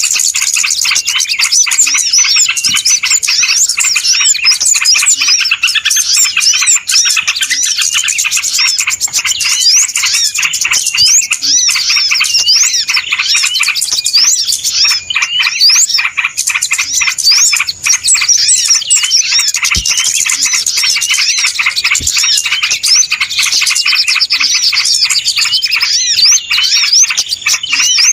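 A busy chorus of many small birds chirping and twittering non-stop, rapid overlapping high notes with no pause: a 'ribut' (noisy) bird-lure call used to draw small birds in.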